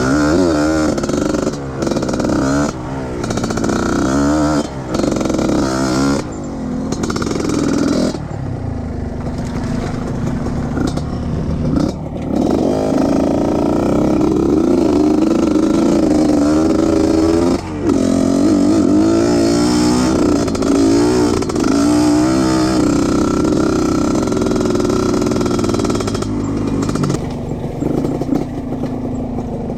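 Trail motorcycle engine revving hard, its pitch rising and falling again and again, with several brief drops where the throttle is cut.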